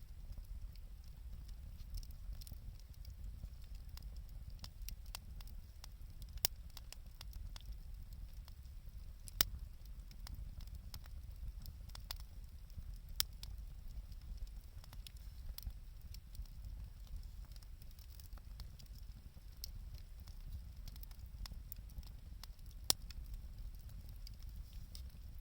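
Wood fire crackling, with scattered small ticks and four sharper pops over a low steady rumble.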